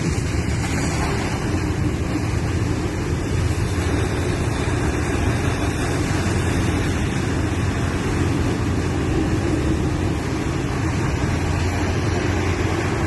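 A boat's engine running steadily, a constant low rumble with rushing noise over it.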